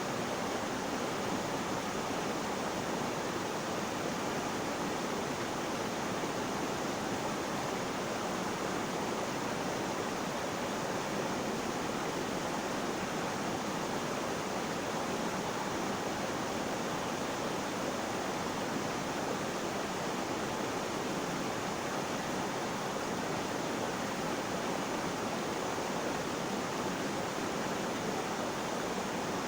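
Flowing water: a steady, unbroken rush of running water.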